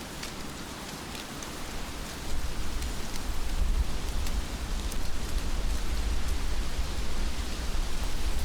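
Heavy rain falling steadily, with scattered drops ticking. About two seconds in, a deep low rumble comes in and stays, making it louder.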